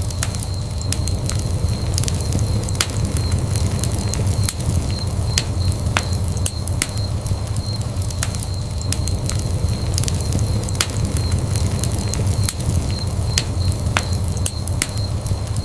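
Wood fire burning in a fireplace with a steady low rumble and frequent sharp, irregular crackles and pops.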